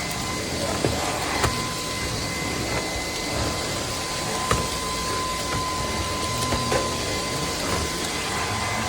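CAMIY cordless stick vacuum running steadily, a constant rushing of air with a steady high motor whine, and a few sharp clicks along the way.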